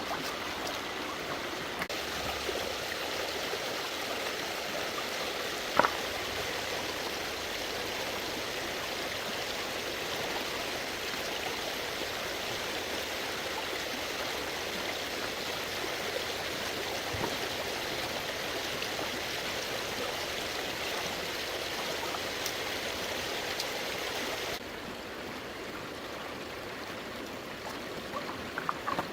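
Stream water running steadily, with one sharp knock about six seconds in. Near the end the water sound drops suddenly to a quieter level.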